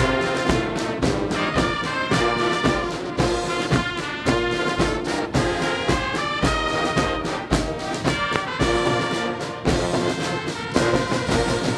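Brass band music with trombones and trumpets over a steady drum beat.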